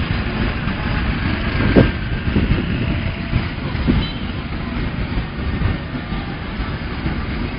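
Passenger train coaches passing close by at speed: a steady rumble of wheels on the rails, with two sharper knocks about two seconds apart.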